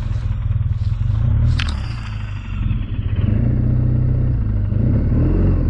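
BMW R1200GS boxer-twin engine running steadily on the road, dipping briefly a little past two seconds in. A sharp click comes about a second and a half in.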